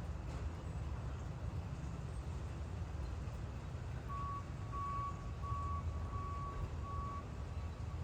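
A vehicle's reversing alarm beeping at one steady pitch, about one and a half beeps a second, starting about halfway through. Underneath are a steady low rumble and an even hiss.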